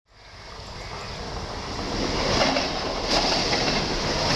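Mumbai suburban electric local train running past close by: a steady rush of wheels and carriages on the track, fading in from silence and growing louder over the first couple of seconds.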